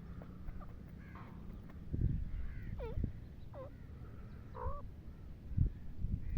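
Francolins (teetar) calling: several short notes that slide downward in pitch, spread through the middle seconds, over low bumping and rumble.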